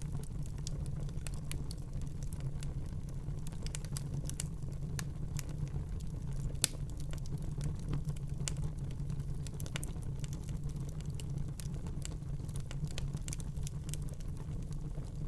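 Wood fire in a fireplace crackling, with frequent irregular pops and snaps over a steady low rumble of the flames; one sharper pop about six and a half seconds in.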